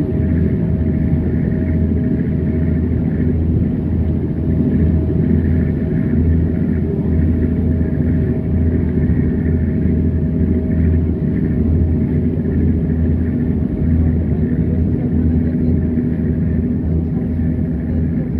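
Steady low rumble of a running engine with a deep, unbroken droning hum.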